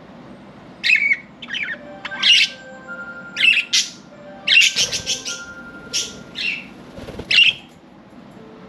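Budgerigars giving short, harsh chirps and squawks, about a dozen calls with a quick run of them about five seconds in. Soft music with held notes plays underneath.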